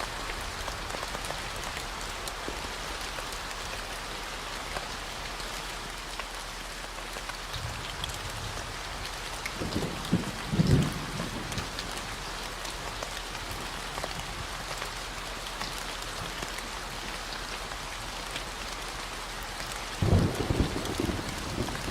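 Steady rain hissing over a continuous low 40 Hz hum. Thunder rumbles briefly about ten seconds in and again near the end.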